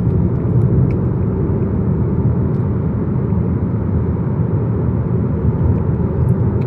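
Steady engine and road rumble heard inside the cabin of a VW Golf GTI Mk7, its 2.0-litre turbocharged four-cylinder cruising at an even pace.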